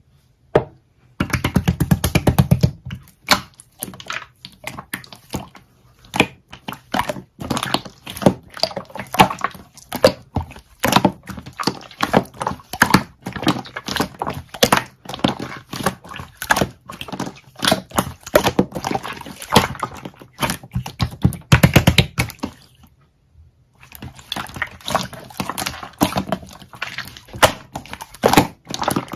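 Irregular knocks and clicks, several a second, with a low hum under some of them and a short pause about two-thirds of the way through.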